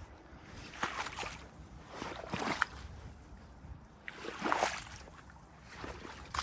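Footsteps wading through water, a slosh and splash with each stride about every second and a half to two seconds, the loudest about four and a half seconds in.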